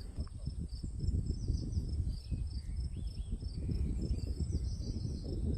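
Insects trilling steadily at a high pitch over a low rumble, with a few short chirps about halfway through.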